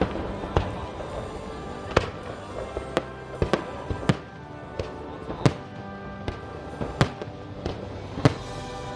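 Fireworks bursting in sharp bangs at uneven intervals, roughly one a second, over music playing.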